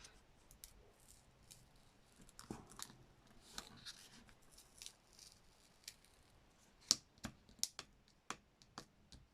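Faint handling of paper and craft pieces: soft rustling and scraping, with scattered light clicks and taps that come sharper and more often in the last couple of seconds.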